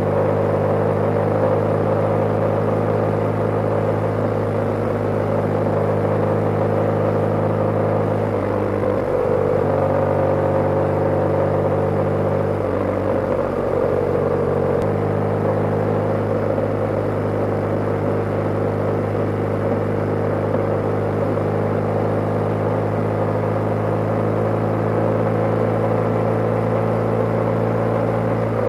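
BMW G/S motorcycle engine running steadily while riding, its note dipping and changing about a third of the way in and again around halfway, as with throttle changes or gear shifts, before settling back to a steady pitch.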